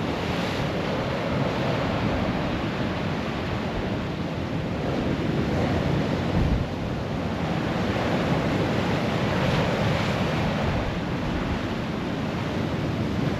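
Rough sea surf washing onto the shore in slow swells, with strong wind buffeting the microphone.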